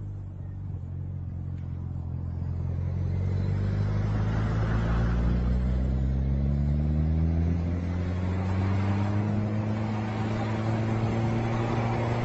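Truck engine pulling under load, its revs climbing slowly for several seconds and then holding steady.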